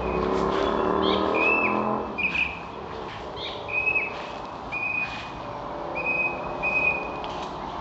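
Birds calling: short whistled notes, each ending in a quick drop, repeated about once a second, with a few rising chirps. A low engine hum, as of a passing vehicle, fades out about two seconds in.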